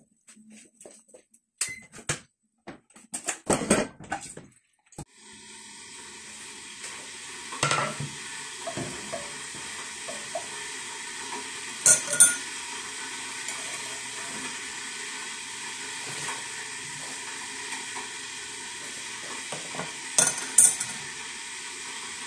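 Egg-and-toast sandwich frying in a nonstick pan: a few knocks of a wooden spatula against the pan, then steady sizzling from about five seconds in, with sharper taps and scrapes of the spatula now and then.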